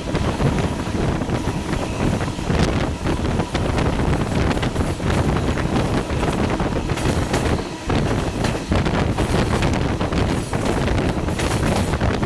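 Passenger train running at speed, heard from aboard: a steady rumble with irregular knocks and rattles from the wheels and cars, and wind buffeting the microphone.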